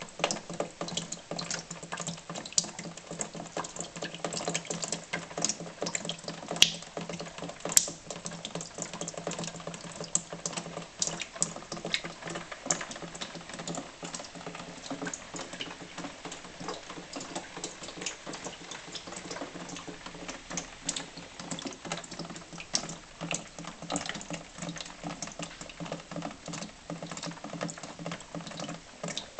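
Rain falling, heard through a window: a dense, irregular pattering of drops, with two sharper, louder ticks about 7 and 8 seconds in. A steady low hum runs underneath.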